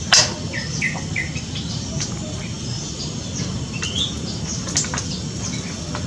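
Birds chirping: short, high chirps and calls scattered throughout, with a sharp click just after the start.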